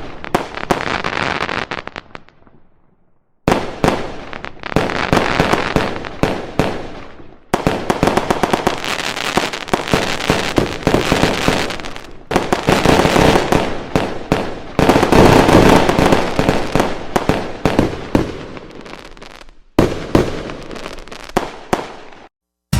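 Fireworks going off: dense, rapid crackling and popping that swells and dies away, in several short stretches that cut off abruptly one after another.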